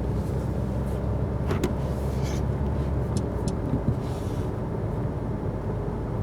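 Cabin noise of a 2019 Mercedes A-Class driving on a snowy road: a steady low rumble of tyres and engine, with a couple of light clicks about one and a half seconds in.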